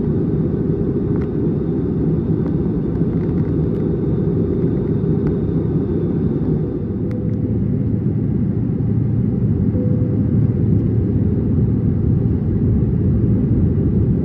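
Steady rumble of an Airbus A320neo's engines and airflow heard inside the economy cabin during descent, growing a little louder about halfway through.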